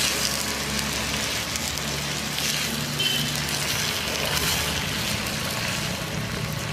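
Thuthuvalai leaves, shallots and garlic sizzling as they fry in oil in a clay pot over a wood fire, stirred with a wooden spatula. Steady crackly hiss, swelling now and then as the spatula turns the mix.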